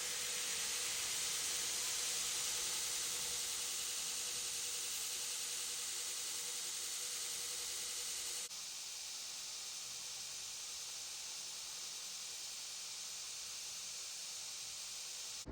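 Steady hiss of a belt grinder abrading the handle fitting round to match the horn handle, with no breaks in the grinding; it drops a little in level just past halfway.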